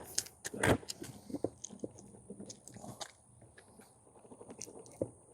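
Irregular clicks and knocks of a Bones skateboard bearing and a Powell Peralta Nano Cubic urethane wheel being handled and pressed onto the truck axle to seat the bearing. The loudest knock comes just under a second in, with another near the end.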